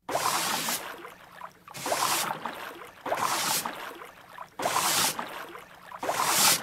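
Rhythmic whooshing noise in five surges about a second and a half apart, each starting sharply and fading away.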